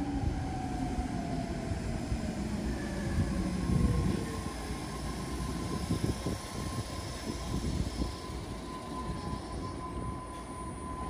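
BART electric train running past the platform over a steady rumble. Its motor whine falls in pitch over the first few seconds, and a steady high tone holds from about three seconds in.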